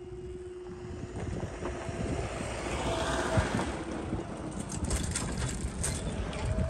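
Approaching train on the main line, its rumble growing steadily louder, with a steady hum that fades about four seconds in.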